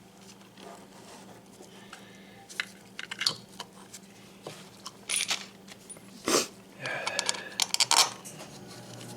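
Scattered clicks, clinks and short rustles of small metal parts and packaging being handled while a new oil pump strainer is fitted on an oil burner, over a faint steady hum.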